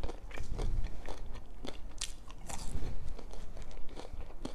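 A person chewing and biting food close to the microphone: irregular crunches and wet mouth clicks, several a second.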